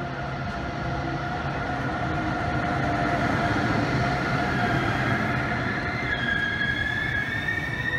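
Intercity train hauled by a DB class 101 electric locomotive rolling in along the platform, the locomotive passing close and then the coaches clattering by. About six seconds in a high, slightly rising squeal starts as the train brakes to a stop.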